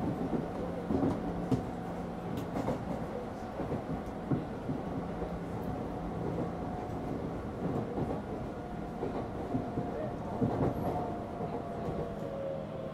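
Tokyu 9000-series electric train running, heard from aboard: a steady motor and inverter whine over rumbling wheels, with knocks from the rail joints. Near the end the whine shifts in pitch.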